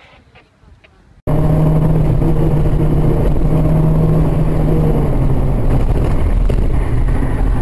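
Loud, steady car engine and road noise from a moving car, cutting in abruptly about a second in, with a low steady engine hum that fades out about five seconds in.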